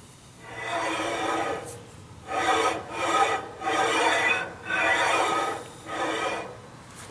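A heavy machined cast-iron part being slid back and forth on a flat plate, in about six scraping strokes with a pitched rubbing tone: hand-spotting the surface to see whether it bears evenly.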